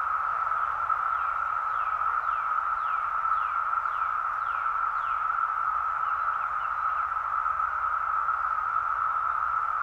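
Dense chorus of Brood X periodical cicadas: a steady, unbroken drone at one high pitch. Over it, a run of short high chirps slides downward, about two a second, and dies away some six seconds in.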